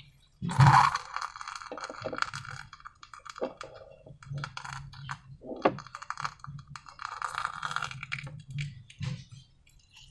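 Slime being squeezed and worked by hand: irregular sticky clicks, crackles and squishes, the loudest about half a second in.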